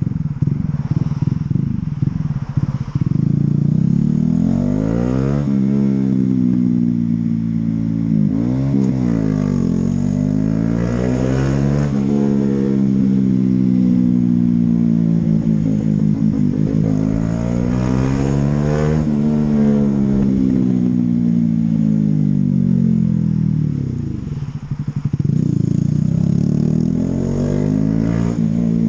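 Honda CB125R's 125 cc single-cylinder engine under way, repeatedly revving up and easing off, with the pitch dropping abruptly at gear changes. About two-thirds through it winds down to a low rumble, then pulls away again.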